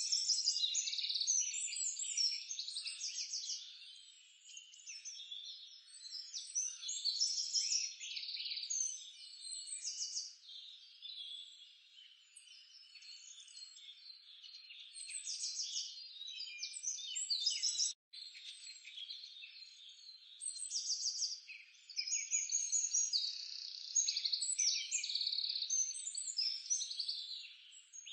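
A dense nature chorus of many overlapping chirping and trilling animal calls, with birds and frogs mixed, that rises and falls in loudness and breaks off for an instant about two-thirds of the way through.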